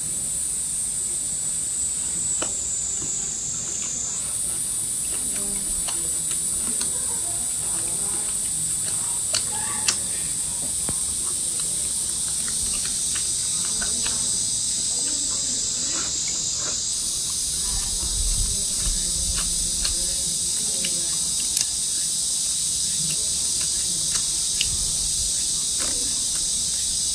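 Steady chorus of insects such as crickets, a high continuous buzz that shifts up in pitch twice, with scattered small clicks and taps over it.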